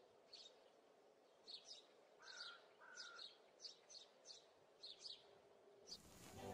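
Faint birdsong: a dozen or so short, high chirps spaced about half a second apart, with two brief whistled notes a little over two seconds in.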